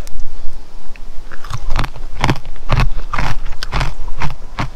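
Someone biting and chewing crisp pork crackling close to the microphone: a run of loud crunches, about two or three a second, from about a second and a half in.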